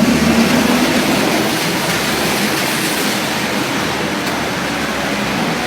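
Steady hiss of rain and tyres on a wet road, with a passing vehicle's engine hum fading in the first second or so.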